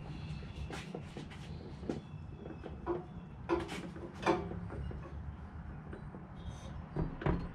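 Scattered short knocks and clunks of metal parts being handled, the loudest a few seconds in and again near the end, over a steady low hum.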